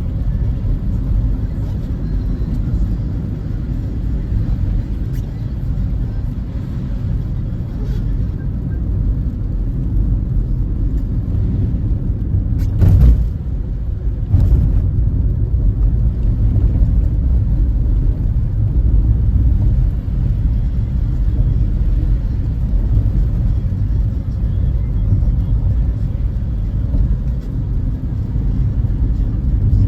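Steady low rumble of a car driving, tyre and engine noise, with two brief knocks about a second and a half apart midway through.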